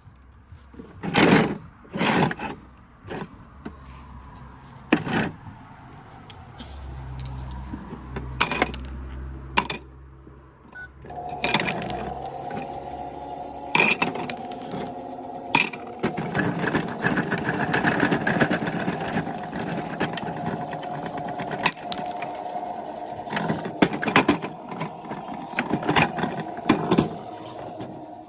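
Toy washing machine being knocked and clattered with sharp plastic impacts. About halfway through, its small electric motor starts up with a steady whine, and the knocking and rattling carry on over it.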